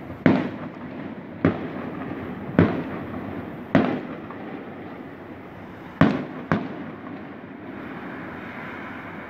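Aerial firework shells bursting: six sharp bangs, about one a second for the first four, then a short pause and two close together about six seconds in. Each bang trails off in an echo over a steady background noise.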